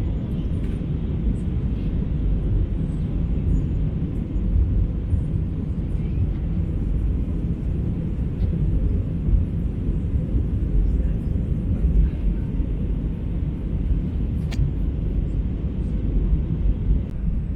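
Airliner cabin noise: the steady, low rumble of the jet engines and airflow heard from inside the passenger cabin, with one faint click about three-quarters of the way through.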